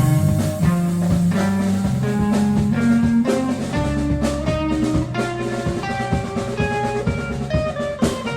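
Live band playing an improvised instrumental jam: electric guitar notes over a bass line that climbs step by step in the first few seconds, with a drum kit keeping a steady beat.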